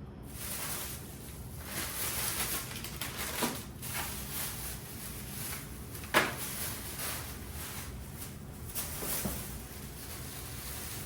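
Groceries being handled and put away in a fridge: packaging rustling in uneven stretches, with a few sharp knocks, the loudest about six seconds in.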